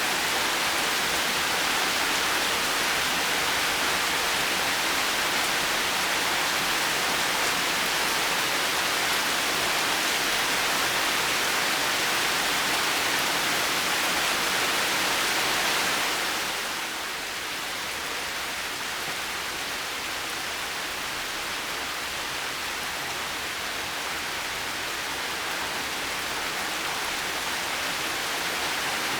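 Heavy rain falling in a steady hiss, which eases somewhat, losing some of its higher sound, a little past halfway through, then slowly builds again.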